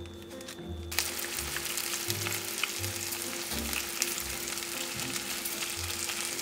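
Starch-dusted salmon pieces frying in hot olive oil in a pan. The sizzle starts suddenly about a second in as the fish goes in, with many small crackles.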